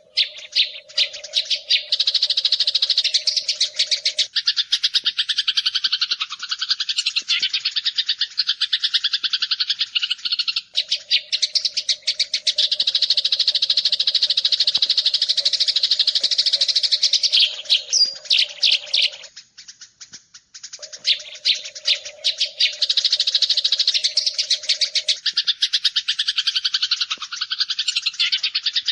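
Eurasian tree sparrow (burung gereja) chirping in a fast, tightly packed stream of calls, as a recorded tutor track. The run breaks off for about a second and a half two-thirds of the way through. A steady low hum lies under parts of it.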